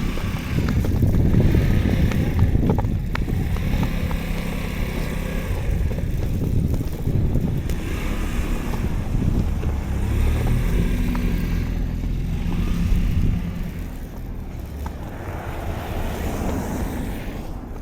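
Low wind rumble on the microphone in a blizzard, mixed with a vehicle engine's steady hum, easing about fourteen seconds in.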